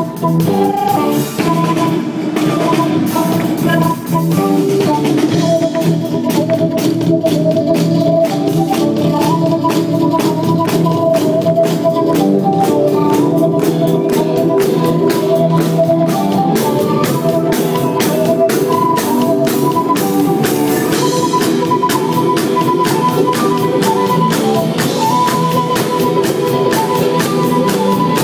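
Live rock band playing an instrumental passage, with a drum kit keeping a steady beat under sustained keyboard notes.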